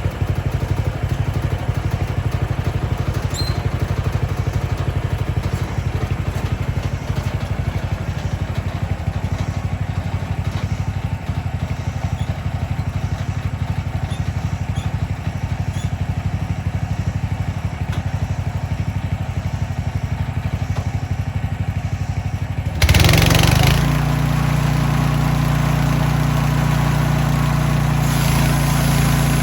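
Gasoline engine of a Mechmaxx bandsaw sawmill running steadily. About 23 seconds in there is a sudden loud burst lasting about a second, after which it settles into a steadier, higher hum.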